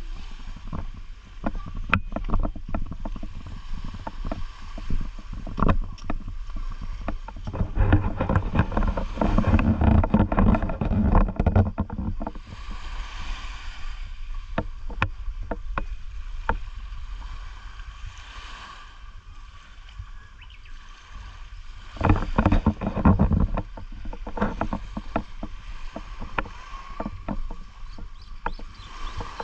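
Sea water sloshing and splashing close to the microphone, with many small clicks and knocks and a low rumble of wind. There are two louder surges, one about eight seconds in and one near twenty-two seconds.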